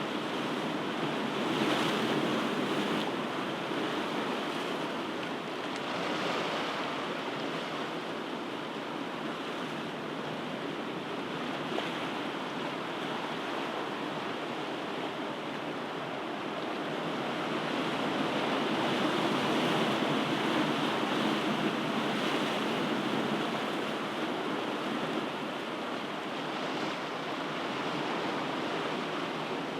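Ocean surf: waves breaking and washing in a continuous hiss that swells and eases, with a broader surge about two-thirds of the way through.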